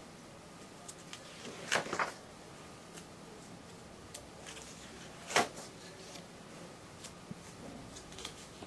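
Paper pages of a catalog binder being turned and handled: a short rustle about two seconds in, a sharp snap of paper a little past halfway, and faint ticks and crinkles between.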